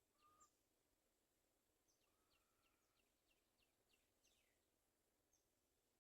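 Faint chirping of small birds: runs of short, high notes that slide downward, about three a second, with a brief lower note near the start and a longer one about two seconds in.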